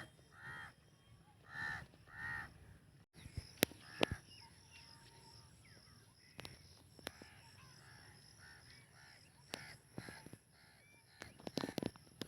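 Crows cawing, three caws in the first couple of seconds. After a sudden break, a quieter stretch follows with scattered sharp clicks and faint bird chirps over a steady high hiss.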